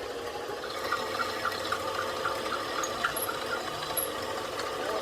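Steady mechanical ticking, about four clicks a second, over a constant hum.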